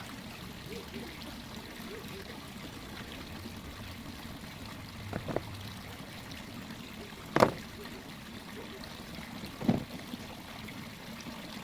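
Three sharp knocks, roughly two seconds apart with the middle one loudest, over a steady trickling hiss.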